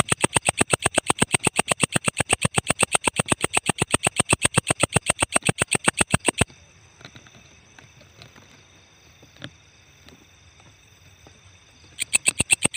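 Walang ecek insect calling in a fast, even run of sharp high chirps, about eight a second. It stops about six seconds in and starts again near the end.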